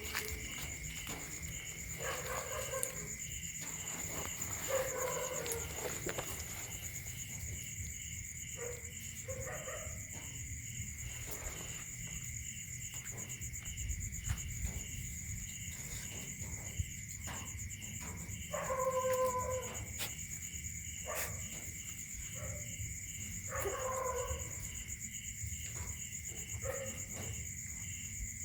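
Puppies whining with short, high, pitched calls that come several times with pauses between them.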